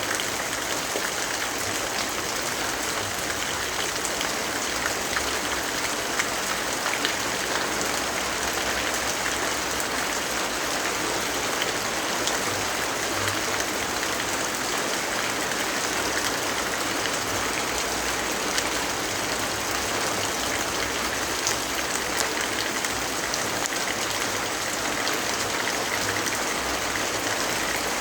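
Steady rainfall: an even hiss sprinkled with small ticks of single drops.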